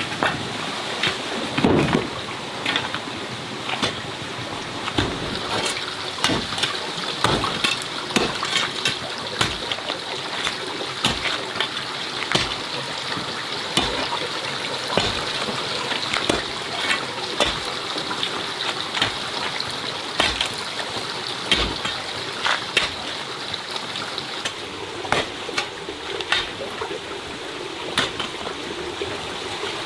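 Running water with many irregular small knocks and clicks over it.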